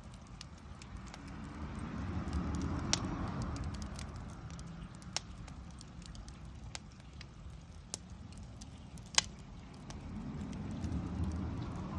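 Wood bonfire crackling, with scattered sharp pops, the loudest about nine seconds in, over a low rumble that swells twice, once a couple of seconds in and again near the end.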